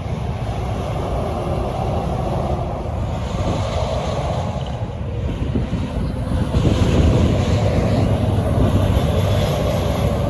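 Road traffic passing, a steady rumble that grows louder about six seconds in as a vehicle, likely a truck, comes close, with wind buffeting the microphone.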